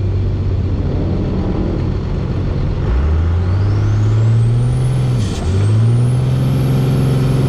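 Turbocharged diesel truck engine accelerating: the engine note climbs about three seconds in with a rising turbo whistle, drops briefly at a gear change, then climbs again.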